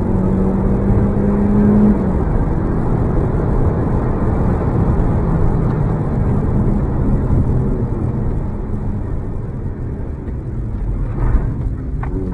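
Audi S3 8L's turbocharged 1.8-litre 20-valve four-cylinder pulling under acceleration, heard inside the cabin over road noise. The engine note climbs, then drops at a gear change about two seconds in. It eases off near the end, where there is a single thump.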